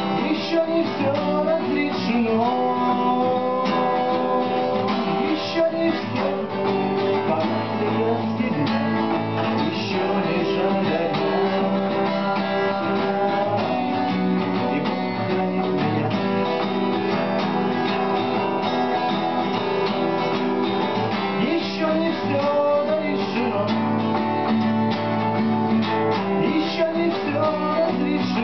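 Acoustic guitar strummed steadily through a song's chords, with a melody line over it.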